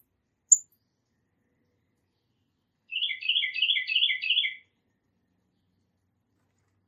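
A songbird singing: one short high chirp, then a fast run of five two-note whistled phrases, each a higher note dropping to a lower one, in a little under two seconds.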